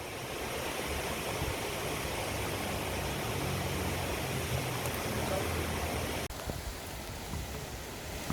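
Steady rush of flowing river water, with a low rumble under it; the sound drops out for an instant about six seconds in.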